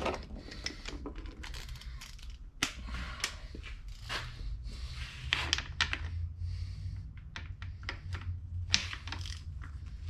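Hand tools clicking and clattering on a Muncie four-speed transmission as its bolts are worked and torqued: a run of irregular sharp clicks and knocks over a low steady hum.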